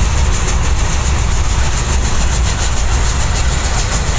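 Passenger train running at speed, heard from inside the carriage by an open barred window: a steady, loud low rumble of the wheels on the track.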